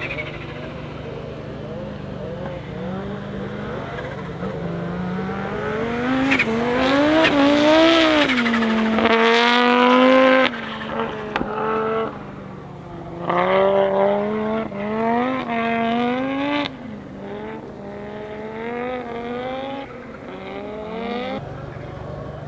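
Audi Sport Quattro S1 E2 Group B rally car's turbocharged inline five-cylinder engine revving up and down repeatedly. It is loudest around eight to ten seconds in, then cuts off sharply; a second burst of rising and falling revs follows a few seconds later.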